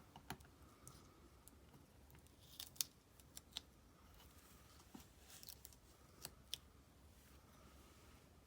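Faint, scattered sharp snips of scissors cutting paper, a few irregular clicks over low room tone.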